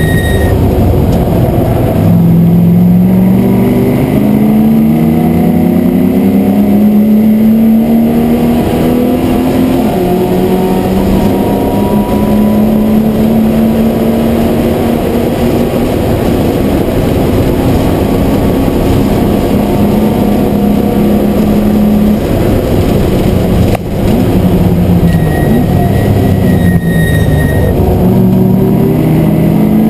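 MGB GT V8's V8 engine at racing speed, heard from inside the cockpit. The revs drop at the start and then climb for several seconds, hold steady and high for a long stretch, dip briefly, fall away again near the end and then pick up once more.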